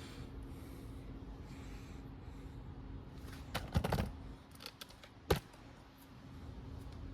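A few short knocks and clicks of hand work on the car, a cluster of them about halfway through and one sharp knock a second or so later, over a steady low hum.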